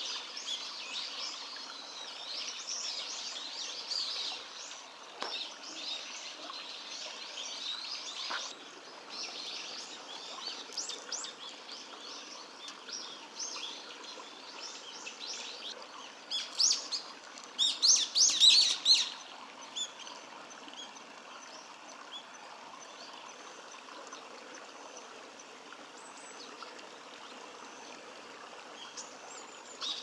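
Small birds chirping and calling over a steady background hiss. The chirps are many and high in the first half. A louder cluster of shrill high calls lasts a couple of seconds a little past the middle, then only a few chirps remain.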